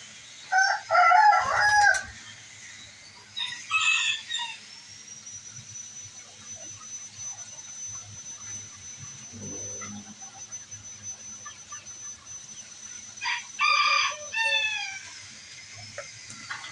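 Rooster crowing three times: loud crows about a second in, at about four seconds and near the end, the last trailing off downward.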